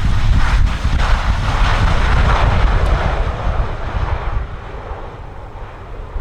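Jet airliner on landing approach passing by, its engine noise swelling over the first couple of seconds and fading away after about four. Strong wind buffets the microphone with a heavy low rumble throughout.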